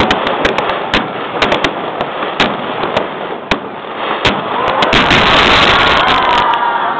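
Aerial fireworks going off: a string of sharp bangs and cracks, with a dense, loud crackling spell in the second half. Recorded through a mobile phone's microphone, so the sound is narrow and thin.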